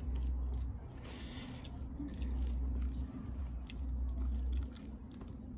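Close-miked chewing of rice and chicken curry eaten by hand, with small wet mouth clicks. A low rumble comes and goes underneath and is the loudest part.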